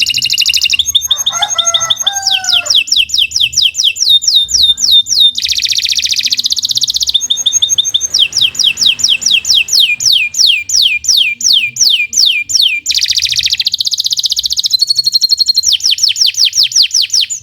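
Domestic canary singing a long, unbroken song. It moves from phrase to phrase: fast trills, then runs of repeated falling whistled notes at about five a second, changing to a new phrase every second or two.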